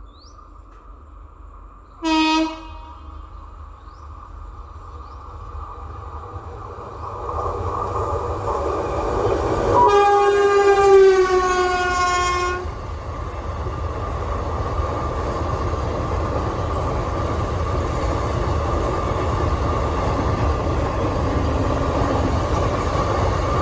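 Express train sounding its horn: a short blast about two seconds in, then a longer blast near the middle whose pitch falls slightly. Both sound over the growing rumble of the train running on the rails, which then carries on steadily.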